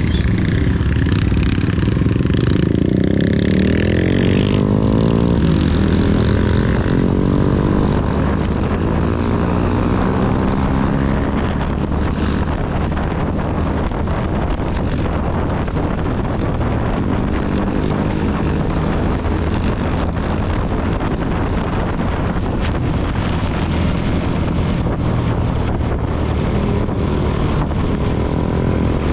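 CB 250 motorcycle engine under way, revs climbing over the first several seconds as it accelerates, then running at a steadier speed. Wind and rain noise rush over it throughout.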